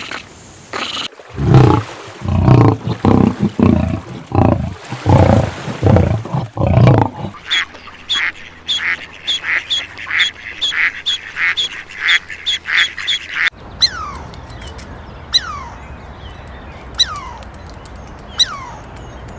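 A series of animal calls: a run of low calls in the first seconds, then short calls repeated about twice a second, then a few separate quick falling bird chirps near the end.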